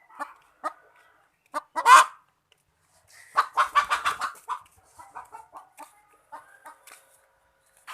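Oriental magpie-robin (kacer) singing in short phrases: a few sharp notes, a loud harsh call about two seconds in, a fast run of notes around the middle, then softer scattered notes.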